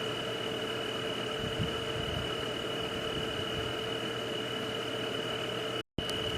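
Steady night-ambience chorus over an even hiss, holding two unwavering pitches, one high and one in the middle range. It cuts out completely for a split second near the end.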